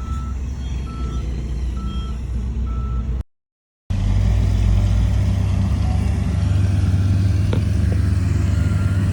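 A heavy-equipment reversing alarm beeping about once a second over diesel engine rumble. After a brief total dropout about three seconds in, a heavy diesel engine runs steadily with a deep, strong hum.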